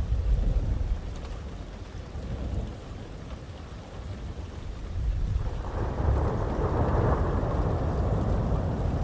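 Thunder rolling over steady heavy rain. A low rumble fades over the first couple of seconds, then a fuller roll of thunder swells up about five and a half seconds in and stays loud to the end.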